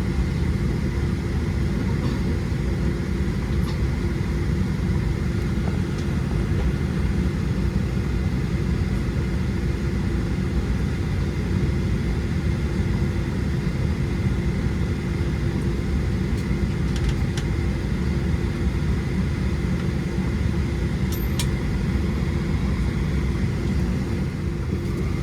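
Steady cabin noise inside a Boeing 737-700: a constant rumble of the engines and airflow with an even hum on top. A single faint click comes near the end.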